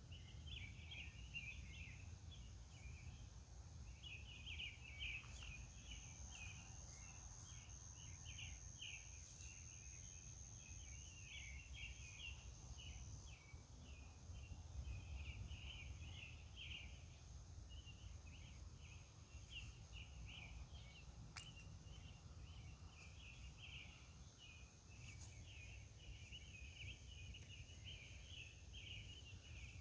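A chorus of night insects chirping in quick, uneven pulses, with a steady high thin whine above it and a faint low rumble beneath.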